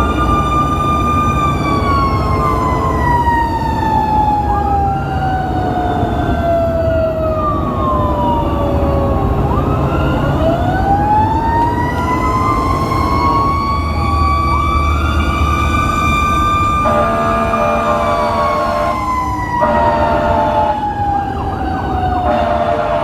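Fire engine responding with sirens: one siren winds slowly down and back up over several seconds while another sweeps faster across it, over a low diesel engine rumble. From about seventeen seconds in, a steady horn sounds for several seconds, broken twice.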